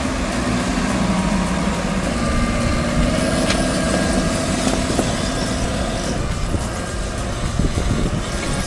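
Excavator's diesel engine running steadily, with several held tones over the engine noise.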